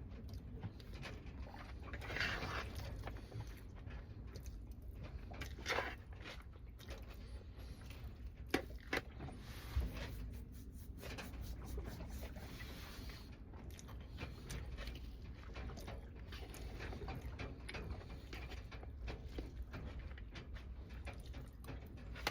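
Close-up eating sounds: chewing and mouth noises with scattered small clicks and taps, and a few sharper clicks about halfway through.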